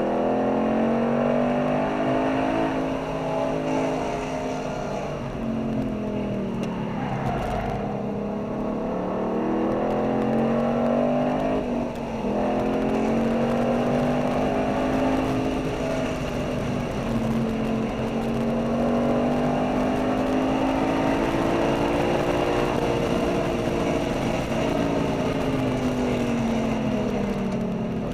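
A V8 car engine heard from inside the cabin at track pace, its revs climbing in long sweeps as it accelerates and dropping as it slows for bends, several times over, with road and wind noise underneath.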